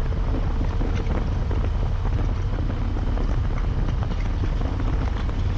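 Steady low rumble of wind and a Harley-Davidson Road Glide's V-twin at cruising speed, picked up by a helmet intercom microphone, with a dense crackle of small wind-buffeting ticks over it.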